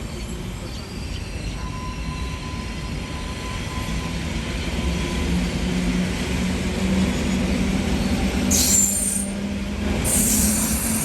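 Electric-locomotive-hauled passenger train drawing in on the rails, its running rumble and a low hum growing louder, with two short bursts of high wheel squeal near the end.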